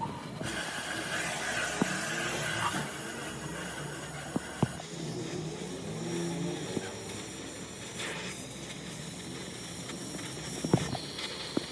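A steady hiss that cuts off abruptly about four and a half seconds in, followed by a few sharp knocks and clicks of workshop work on the car.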